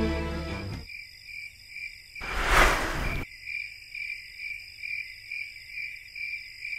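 Background music ending in the first second, then insects chirping in a steady high pulse a little over twice a second over a fainter steady high buzz. A little over two seconds in, a rush of noise lasting about a second is the loudest sound.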